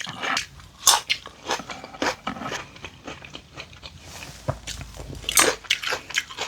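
Close-miked eating: a person biting and chewing food, a run of irregular sharp clicks and smacks, with a couple of louder bites about a second in and near the end.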